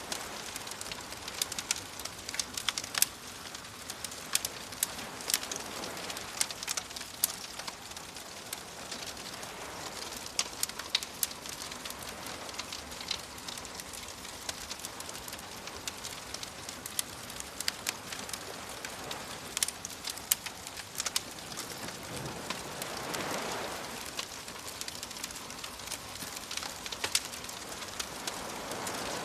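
Wood fire crackling, with many irregular sharp pops and snaps, over soft sea waves washing in slow swells; a fuller wave rolls in about two-thirds of the way through.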